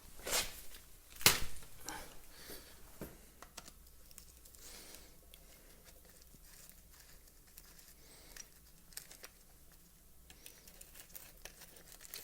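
Handling noises from hands working on a string trimmer's parts: two sharp knocks in the first second and a half, then faint scattered clicks and rustling.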